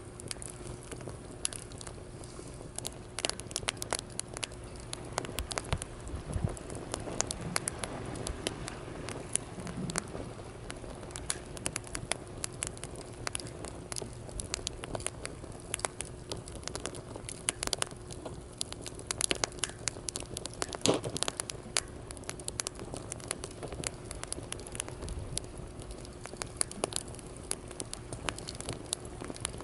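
Wood fire crackling and popping in a campfire stand, with frequent sharp pops over a steady background hiss.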